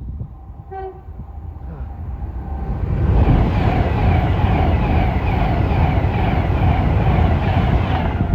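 Avanti West Coast express train passing at speed. There is a short horn toot about a second in, then the train's rush builds and runs loud with a fast repeating beat of wheels over the rail joints, and it cuts off suddenly.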